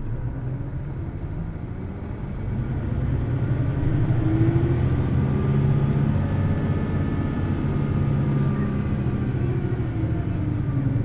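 Hino Blue Ribbon City Hybrid bus running, its engine climbing in revs about two seconds in and then held high and steady, with a faint whine above. The pitch eases down slightly near the end.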